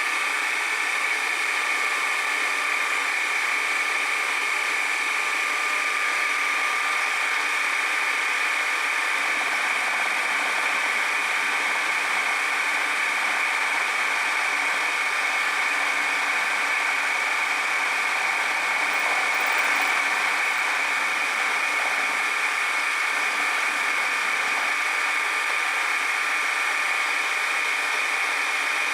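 A workshop machine running steadily: an even, unbroken mechanical noise with a strong high band and no rhythm or strikes.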